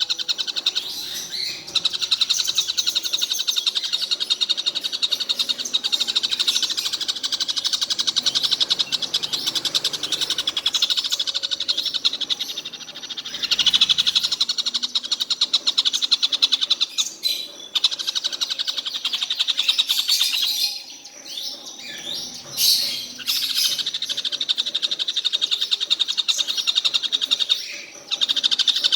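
Collared kingfisher (tengkek buto) calling in long runs of very rapid, high repeated notes, broken by a few short pauses.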